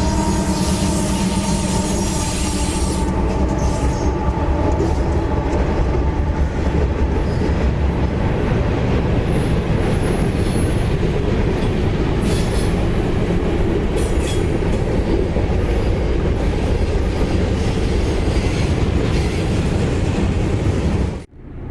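A freight train rolling past close by: a steady, loud rumble of steel wheels on rail with clatter from the cars. It cuts off abruptly near the end.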